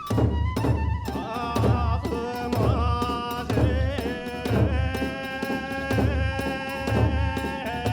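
Kagura accompaniment: a large drum beating a steady rhythm with crisp hand-cymbal strikes, under a held, wavering melody line.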